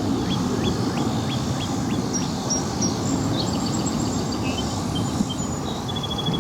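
Small birds chirping repeatedly, a run of quick rising chirps for the first two seconds followed by higher trilled notes, over a steady low rumble of airport and aircraft noise.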